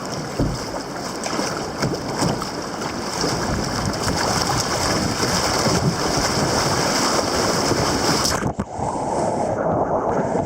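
River rapids rushing: a loud, steady rush of white water. About eight seconds in it cuts abruptly to a duller, lower rush.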